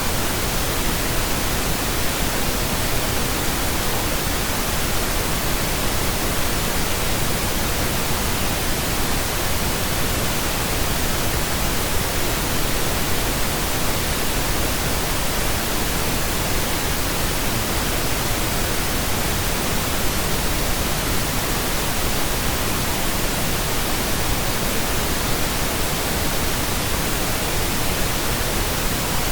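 Steady pink noise: an even, unchanging hiss spread across low and high pitches alike.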